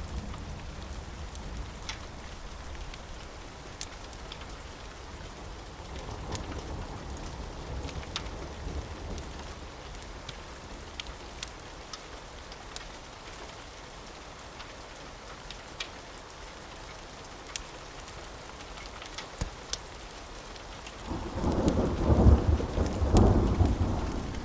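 Steady rainfall with scattered sharp crackles, and a roll of thunder rumbling loudly for about three seconds near the end.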